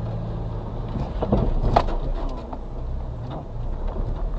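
Suzuki Carry kei truck's 660cc engine running at low revs, heard from inside the cab. A cluster of knocks and rattles comes about a second in, the loudest just under two seconds in.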